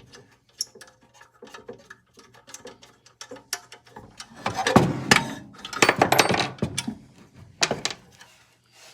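Hand tools and small metal parts clinking and ticking while a miter saw is taken apart, with louder bursts of clattering about halfway through and a shorter one near the end.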